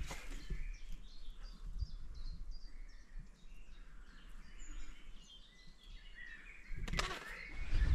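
Songbirds singing, a run of many short high chirps, with a few footsteps on the trail near the end.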